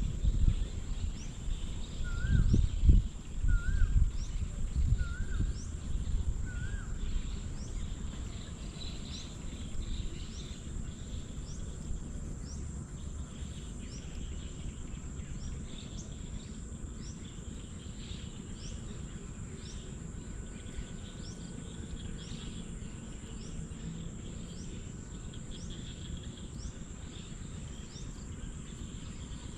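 Outdoor ambience of insects and small birds: a steady high insect drone with quick chirps repeating throughout, and four short whistled bird notes in the first several seconds. A low rumble is loudest in the first few seconds, then fades to a steady background.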